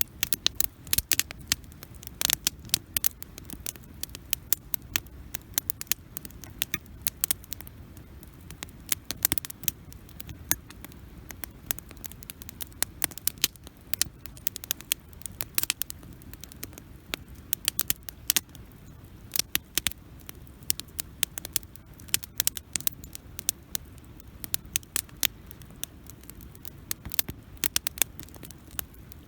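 Wood campfire crackling, with frequent, irregular sharp pops over a low, steady background of the burning fire.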